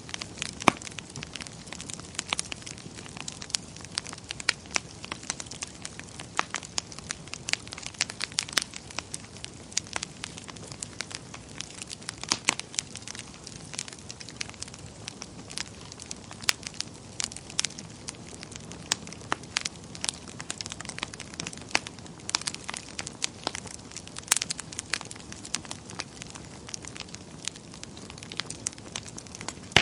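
Wood fire burning in a fireplace, with frequent irregular crackles and pops over a soft steady hiss.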